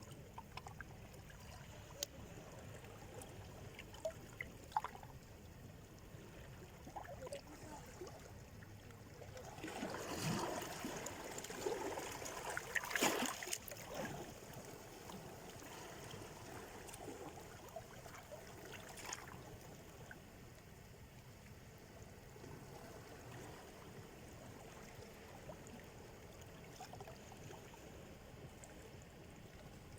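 Gentle sea surf: small waves lapping and trickling on the shore, with scattered small splashes. One bigger wave washes in about ten seconds in, peaks a few seconds later and then drains away.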